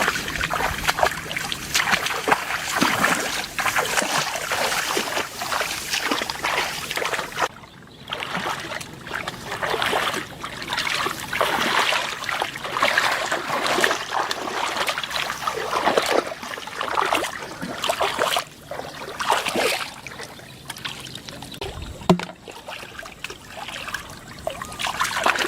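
Shallow floodwater splashing and sloshing again and again, irregularly, as it is waded and stirred through, with one sharp knock near the end.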